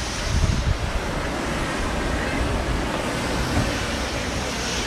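Wind buffeting the microphone, with low gusty rumbles over a steady rushing noise.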